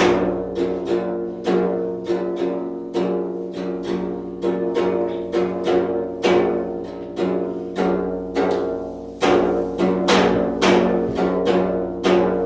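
Traditional Korean zither music: strings plucked or struck in a steady run of sharp attacks, about two a second, each note ringing and decaying, with a brief pause shortly before the end.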